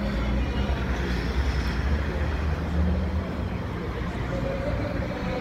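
A motor vehicle's engine running steadily with a low rumble that swells slightly in the middle, with faint voices in the background.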